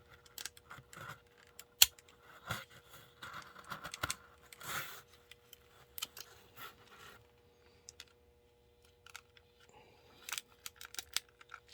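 Scattered small clicks, taps and brief rubbing as hands work the plastic body shell of an HO-scale model diesel locomotive loose from its frame, with one sharp click about two seconds in. A faint steady hum runs underneath.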